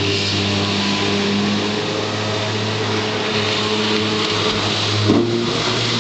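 Jet ski engine running at a steady pitch, with a short louder burst about five seconds in.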